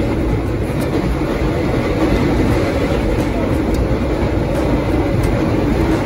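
Passenger train running along the track, a steady rumble of wheels on rails heard from inside the coach.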